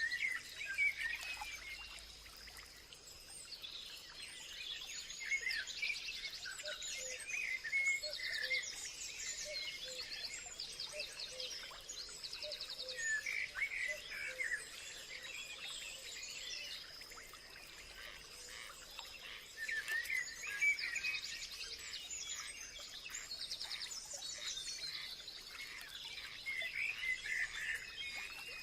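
Several birds singing and chirping at once, overlapping short calls and fast trills, with a faint steady high-pitched tone underneath.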